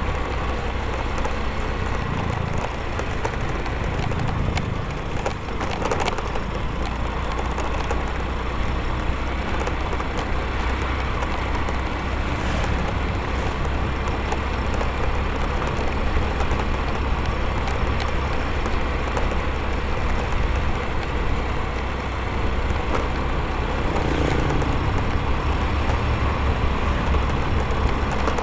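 Motorcycle on the move: a steady rush of wind and road noise on the microphone, with the engine running underneath.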